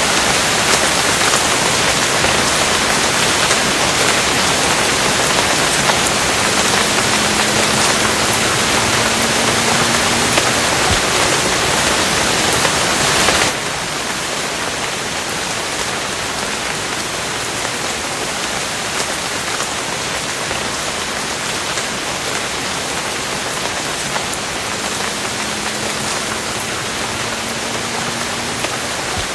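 Steady heavy rainfall, a dense hiss with individual drops ticking through it; about halfway through it drops suddenly to a softer, duller rain.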